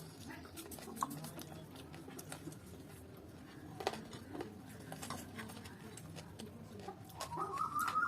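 Eating sounds of rice and curry eaten by hand: chewing and soft mouth noises with scattered small clicks against the plate. Near the end, a wavering high-pitched call rises and holds for about a second.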